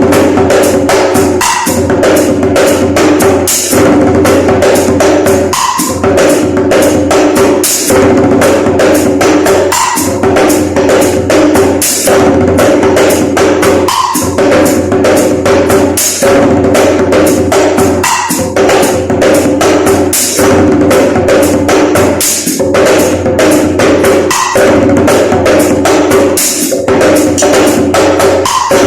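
Broken djembe played by hand in fast, dense strokes, a rhythm that repeats about every two seconds, with steady held tones underneath.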